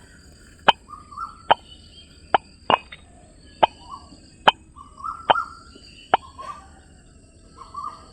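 A series of sharp clicks or taps, eight of them, spaced a little under a second apart, with faint short scraping sounds between them.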